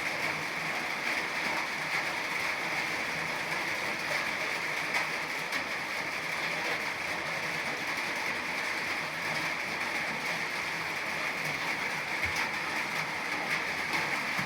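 Steady rain falling, an even hiss with many small drop hits scattered through it.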